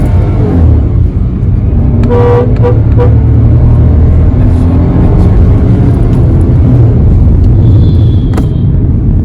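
Nissan Magnite's 1-litre petrol engine and road noise heard from inside the cabin as the car pulls away under light throttle, a steady low rumble. About two seconds in, a car horn sounds in about three short toots.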